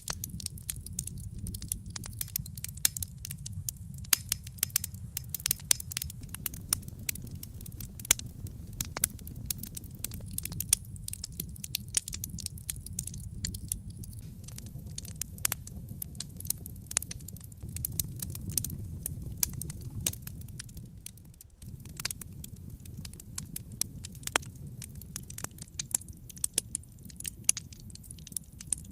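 Wood fire burning in a fireplace: constant irregular crackling and sharp pops over a low, steady rush of the flames, which dips briefly about two-thirds through.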